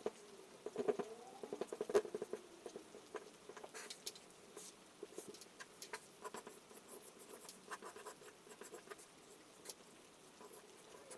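Rain pattering: a faint, uneven run of small drop ticks.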